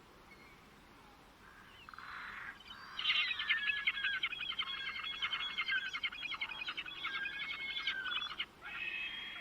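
A songbird singing: after a quiet first second or so, a long run of fast, tightly repeated notes lasting about five seconds, then a brief pause and a higher, more drawn-out phrase near the end.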